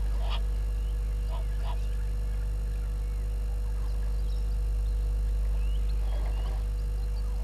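A few short bird calls, repeated notes at the start, two more about a second and a half in and some thin chirps near the end, over a steady low hum.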